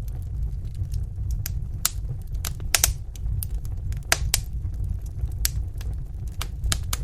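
Wood fire in a fireplace crackling, with irregular sharp pops, the loudest a little under 3 seconds in and around 4 seconds in, over a steady low rumble.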